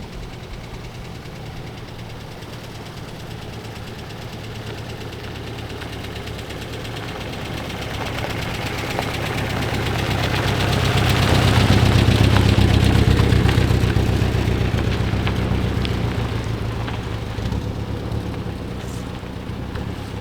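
Peugeot 403's four-cylinder engine running as the car moves at low speed. The sound grows louder toward the middle, peaks, then fades away again.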